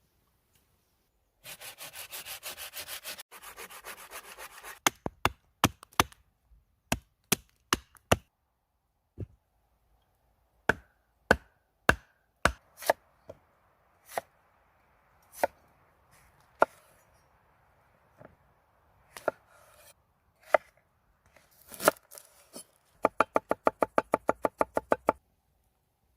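Food being cut on a wooden surface. It opens with a few seconds of fast rubbing or scraping strokes, then goes on with a long series of sharp single chops at uneven spacing, and ends with a quick run of even chops.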